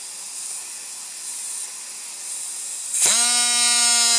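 Compressed air hissing into a pneumatic Lego V-twin engine, then about three seconds in the engine, running with no flywheel, spins up sharply to a steady, very high-pitched whine at around 14,000 RPM.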